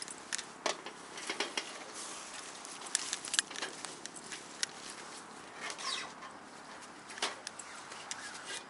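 Handling noise as a wood-stove chimney pipe is worked into a tent's silicone-and-fibreglass chimney hole: rustling of the nylon tent fabric with scattered sharp clicks and scrapes, busiest around the middle.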